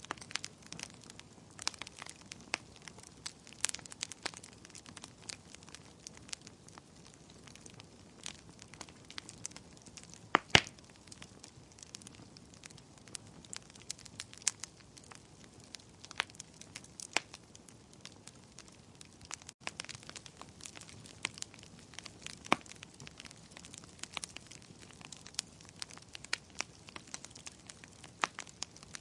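Wood fire burning with steady crackling and sharp irregular pops over a soft hiss, one pop clearly louder than the rest about ten seconds in.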